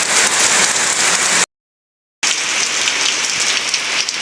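Heavy rain falling steadily, a dense even hiss of rain on surfaces. The sound cuts out completely for under a second about a third of the way in, then returns unchanged.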